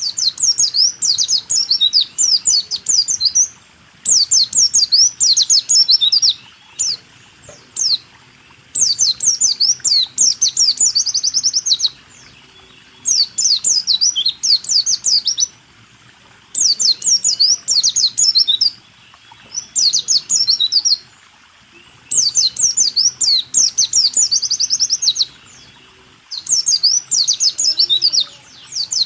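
A white-eye (pleci) singing its fast rolling 'rool tembak' song: high, rapid chirps and trills in phrases of a few seconds, repeated about nine times with short pauses between.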